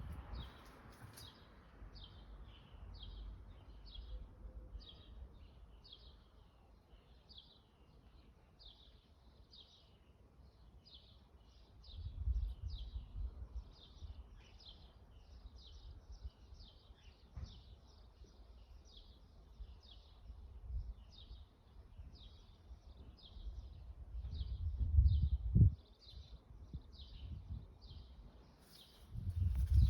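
A bird calling over and over, short chirps about twice a second that keep up steadily. Low rumbles break in briefly twice, about twelve seconds in and again near the end.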